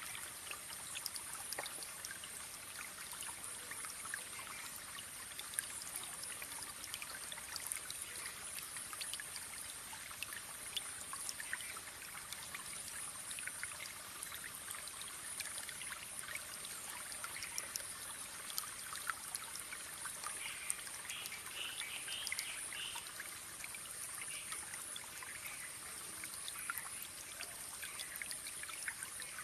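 Small waterfall splashing and trickling: a steady hiss of falling water, dotted with many small splashes and drips.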